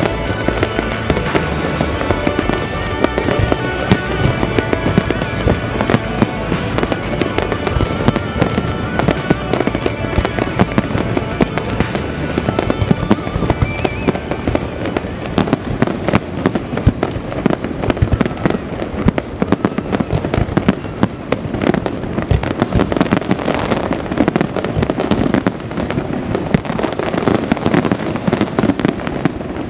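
Fireworks bursting and crackling in rapid, dense succession, with music playing over the first half.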